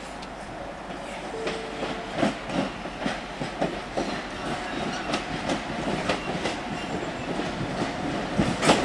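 A Class 175 Coradia diesel multiple unit rolling in towards the platform, its wheels clicking and knocking unevenly over rail joints and pointwork, growing louder as it comes closer. A sharp loud click comes near the end.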